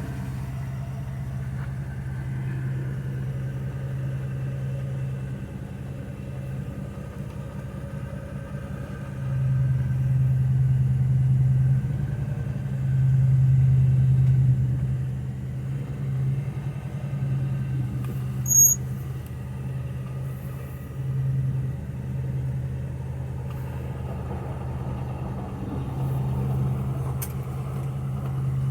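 1953 Ford's flathead V8 running under way, pulling off in first gear, its low, steady note swelling louder twice as it accelerates. A brief high chirp about two-thirds of the way through.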